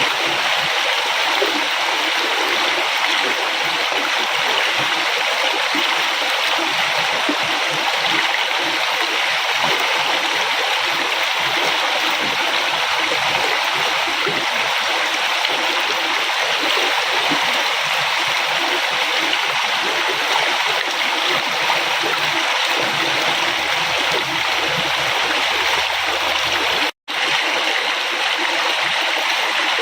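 Steady rushing and splashing of a flowing river. The sound cuts out for a split second near the end, then resumes.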